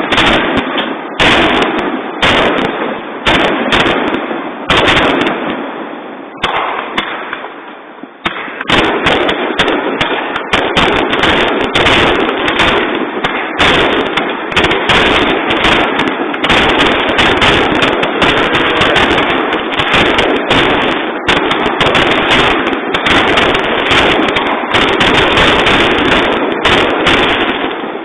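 Fireworks display: a dense barrage of bursts and crackling reports in quick succession. It thins briefly partway through, then comes back thick and unbroken.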